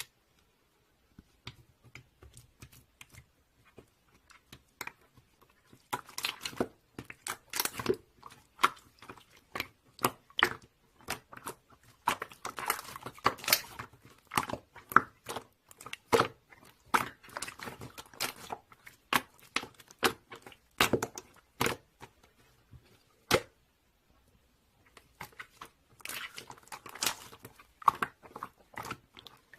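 Crinkly packaging being handled and torn: bursts of irregular crackling and clicks in clusters, with a pause of a couple of seconds near the end before the crackling resumes.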